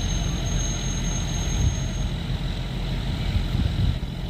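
Vehicle engines idling with a steady low rumble.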